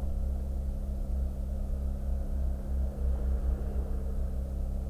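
Ferrari F430 Spider's 4.3-litre V8 idling steadily, heard from the open-top cabin.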